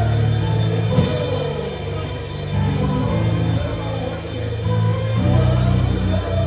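Live church worship band playing, with bass, sustained chords and drums.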